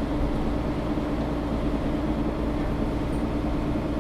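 Mercedes-Benz O530 Citaro G articulated city bus running, heard from inside the passenger cabin: a steady engine and drivetrain drone with an even hum.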